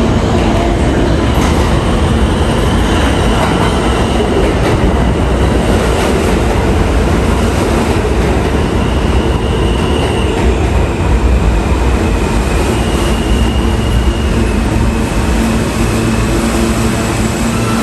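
New York City Subway train running on steel rails, a loud steady rumble with thin high wheel-squeal tones coming and going.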